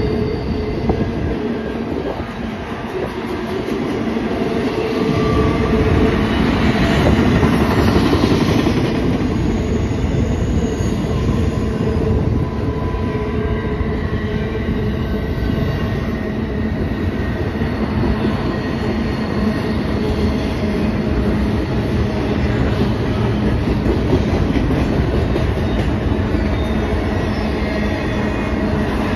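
Double-stack intermodal container cars of a CN freight train rolling past on curved track. The wheels keep up a steady rumble and clatter, with thin high-pitched squeal tones running through it. The sound grows louder for a few seconds early on, then stays even.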